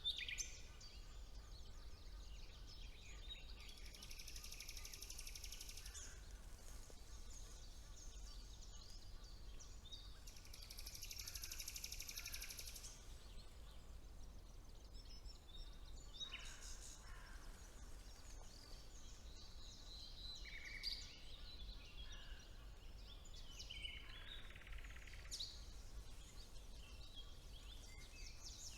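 Songbirds singing over a low, steady background rumble. Two long, rapid, high trills of about two seconds each come early on, followed by scattered shorter chirps and phrases in the second half.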